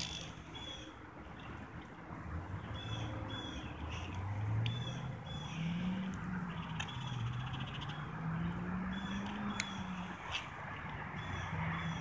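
Outdoor ambience: birds chirping in short, repeated calls over a low hum that slowly rises and falls in pitch, with a few faint clicks.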